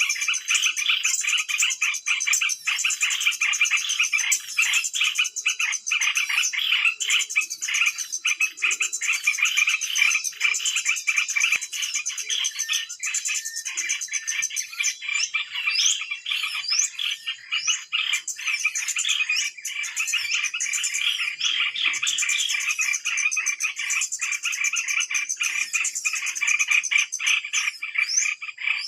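A dense, unbroken chorus of rapid chattering animal calls, with quick rising chirps scattered through it from about halfway in.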